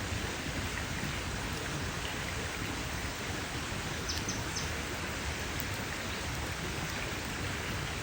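Campfire crackling: a steady hiss of burning wood with faint small pops, a quick cluster of them about four seconds in.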